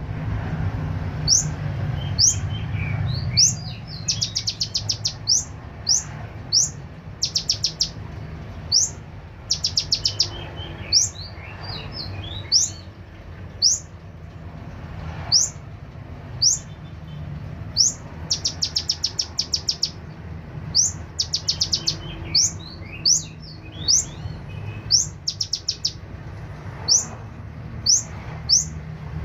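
Kolibri ninja sunbird singing continuously in full song. It gives sharp, high, upward-flicking whistles about once a second, with fast rattling trills now and then and softer twittering notes. A steady low hum runs underneath.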